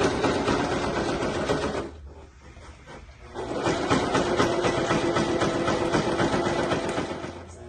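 Electric sewing machine stitching in two runs, about two seconds and then about four seconds, with a short pause between, sewing a zipper onto a cushion cover.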